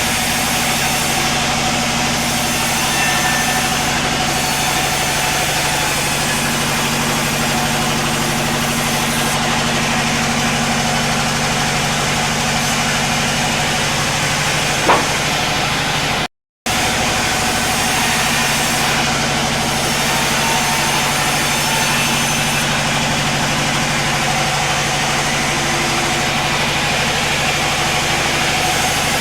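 Sawmill machinery running steadily with an even, engine-like hum. There is a short sharp blip about 15 seconds in, and the sound cuts out for a moment a second later.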